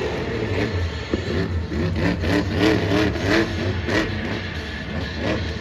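Monster truck's supercharged alcohol-burning engine revving in quick repeated blips, its pitch rising and falling again and again.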